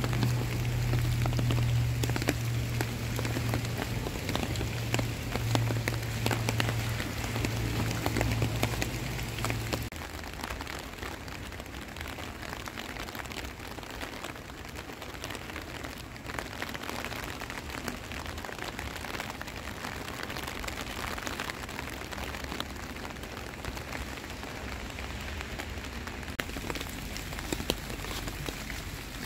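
Heavy rain falling on pavement and leaves, with many close drops ticking. A low steady hum runs under it for about the first ten seconds, then stops.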